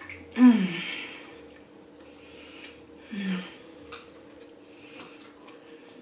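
A woman chewing a mouthful of burger with her mouth closed. There is a loud breath out through the nose with a falling 'mmm' about half a second in, a shorter 'mm' about three seconds in, and faint wet mouth clicks near the end. A faint steady hum in the room runs underneath.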